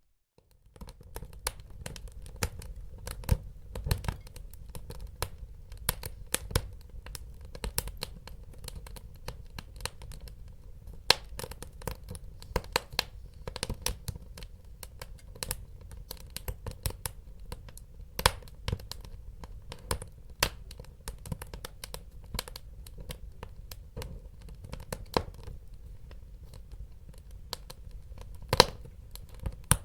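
Wood fire crackling, with frequent sharp pops and snaps over a low steady rumble of burning. It starts about half a second in after a brief silence.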